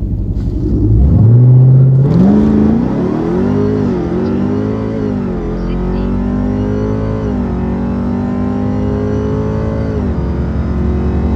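V8 drag cars launching and accelerating hard down the strip, loudest just after the launch about a second in. The engine pitch climbs and drops back at each of about four gear shifts.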